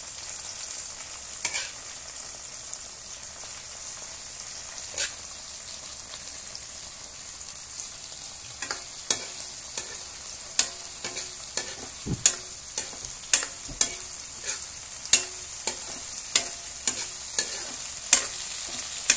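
Salagubang (June beetles) and garlic sizzling in hot oil in a wok, being fried crisp, with a metal spatula clinking and scraping against the pan. The clinks are sparse at first and come about once or twice a second from around the middle on.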